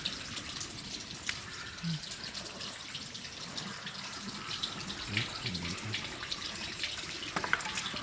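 Water running and splashing steadily, with many small drips and trickles, and faint low voices in the background about five seconds in.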